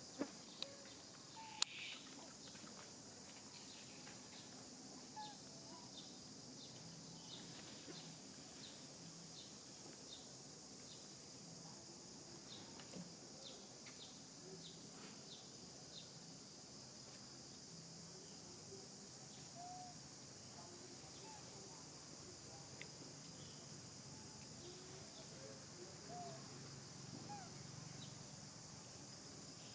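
Faint outdoor ambience: a steady high-pitched insect drone, with scattered faint chirps and a few clicks, one sharper click about a second and a half in.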